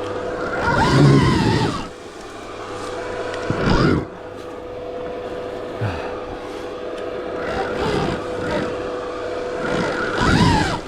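Stark Varg EX electric dirt bike riding off-road: a steady motor whine with rough surges of riding noise as the throttle is worked, loudest about a second in, around four seconds and near the end.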